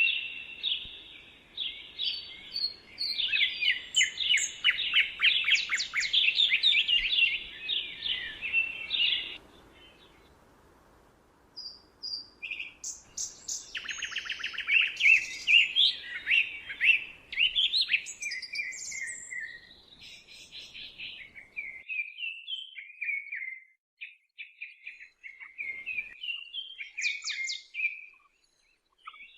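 Songbirds singing, several overlapping rapid chirping and trilling songs, with a brief lull about ten seconds in and sparser calls near the end.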